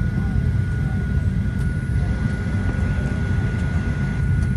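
Steady cabin noise inside a Boeing 737-800 before engine start: an even low rumble of air-conditioning airflow with a thin steady whine above it.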